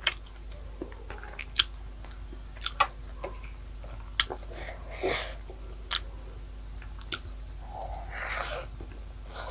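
Close-miked eating by hand: chewing with scattered sharp, wet mouth clicks about a second apart, along with fingers working rice on a plate. Near the end a fresh handful of rice and pork goes into the mouth.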